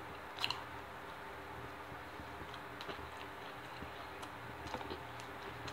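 A person chewing a bite of sub sandwich, with faint wet mouth clicks scattered through; one sharper click about half a second in.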